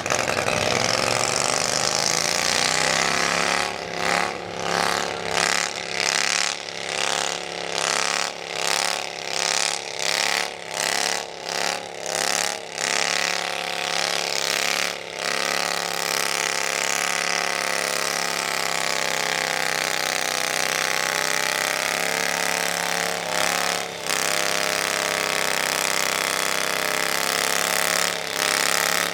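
Sport Stock garden pulling tractor's engine running hard under load on a pull. From about four seconds in, its note dips and recovers more than once a second for about ten seconds as the driver works the throttle, then it runs steady.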